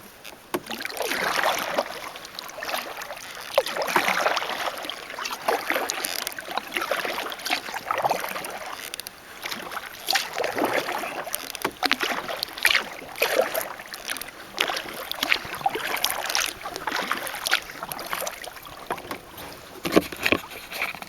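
Kayak paddle strokes: the blade dipping and splashing in the water, a stroke about every two seconds, with water dripping and light knocks between.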